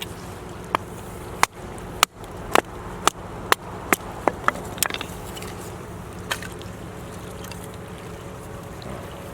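A run of about ten sharp knocks or snaps, roughly two a second, over a steady low background rumble; they stop about five seconds in, and one more comes a second later.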